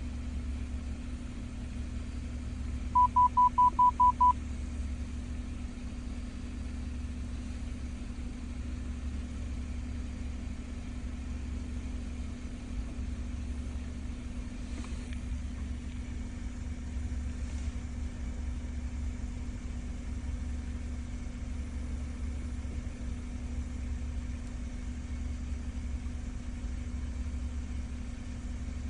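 Steady low hum of an idling vehicle engine. About three seconds in comes a quick run of seven short, loud, single-pitched electronic beeps, about five a second.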